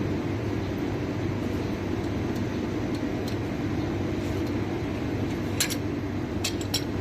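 A steady low machine hum, with a few short sharp clicks near the end.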